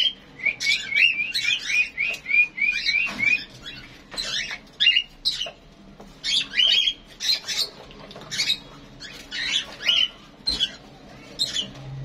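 Small cage birds chirping again and again, with a quick even run of about ten chirps in the first few seconds and scattered single chirps after.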